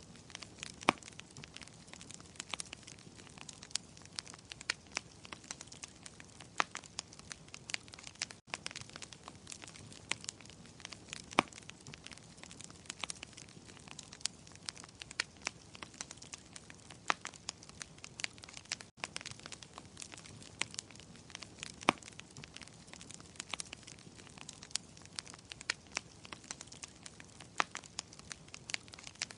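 Wood fire crackling in a fireplace: frequent sharp pops and snaps of uneven strength over a soft, steady hiss, broken twice by a momentary gap.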